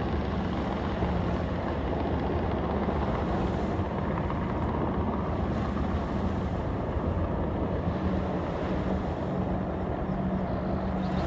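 Steady low engine drone with a constant hum, mixed with wind noise on the microphone.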